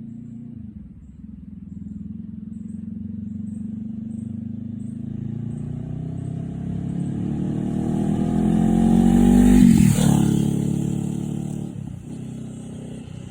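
Honda CBR500R parallel-twin engine through a Leo Vince slip-on muffler, pulling hard with its note rising steadily and getting louder. It peaks about ten seconds in, then the note drops abruptly and settles lower.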